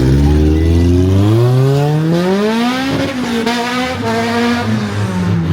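A car engine revving hard under acceleration, its pitch climbing for about three seconds, dropping sharply once at an upshift, then falling away near the end as it backs off.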